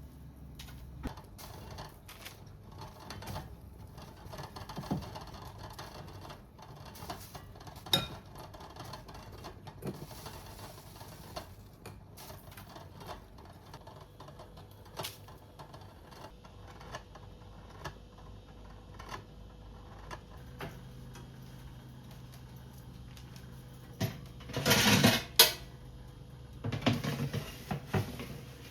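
Scattered light clicks and knocks of small objects being handled, with a louder burst of clattering about 24 seconds in and another a few seconds later.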